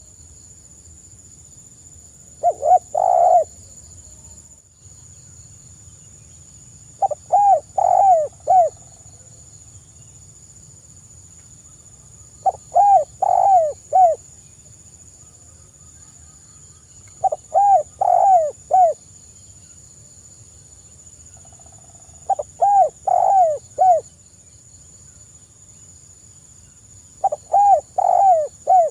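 Spotted dove cooing: a short phrase of four or five rising-and-falling coos, repeated about every five seconds.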